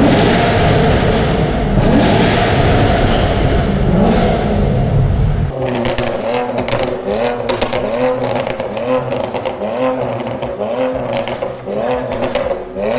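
Several car engines revving hard inside a tunnel, a dense roar that rises and falls in pitch. After a sudden change about five seconds in, one engine is blipped again and again, with sharp exhaust pops and bangs crackling between the revs.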